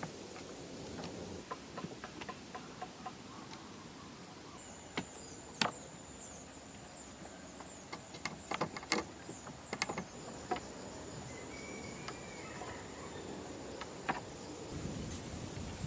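Insect trilling, a thin steady high tone that comes in about five seconds in, among scattered light clicks and knocks.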